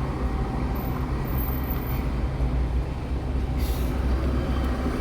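Bus engine running with a steady low rumble, and a short hiss of air about three and a half seconds in.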